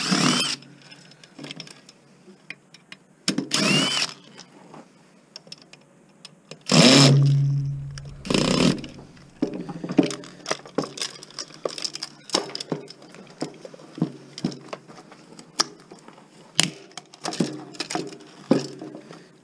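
Clicks, clinks and knocks of tools and metal and plastic parts as a blender is taken apart. About seven seconds in comes the loudest sound, a short steady whir of a power tool lasting about a second.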